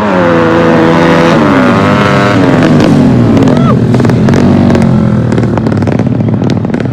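Racing motorcycle engines running hard, their pitch dropping in steps over the first couple of seconds and then running lower. Sharp crackles come through in the second half.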